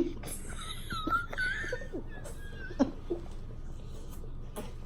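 Faint, high-pitched wheezing laughter from a woman, with a few small clicks.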